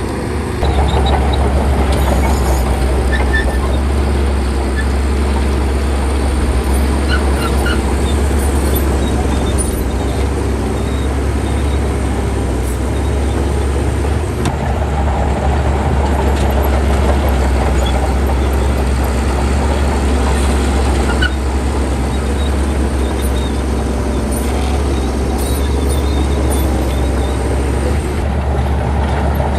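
Heavy diesel engine of earthmoving machinery running steadily, with a strong deep hum.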